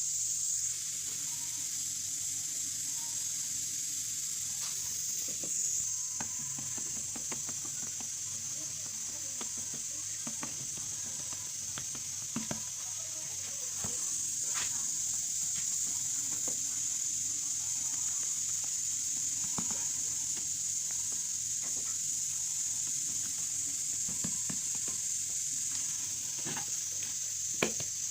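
Steady sizzling hiss with scattered small crackles and clicks, as of bread cooking on a hot surface.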